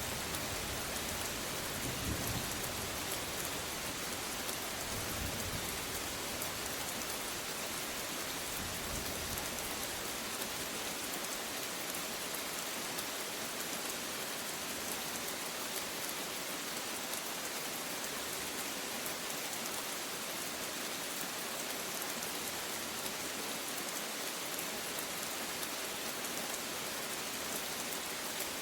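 Steady rain falling, with the low rumble of thunder dying away over the first several seconds, swelling once about two seconds in.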